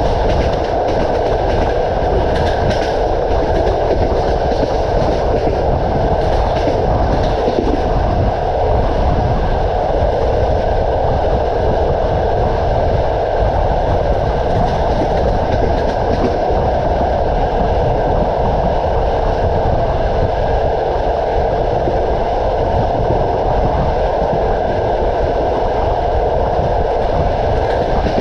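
Passenger train running steadily along the track, a continuous rumble of wheels on rails with a few faint clicks of wheels over rail joints in the first several seconds.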